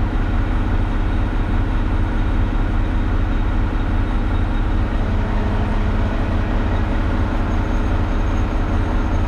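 Front-loader garbage truck running as it drives, heard from inside the cab: a steady, even low rumble of engine and road noise with a constant hum.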